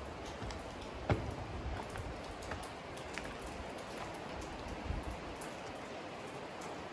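Steady rain, with scattered drips and light taps and one sharper knock about a second in.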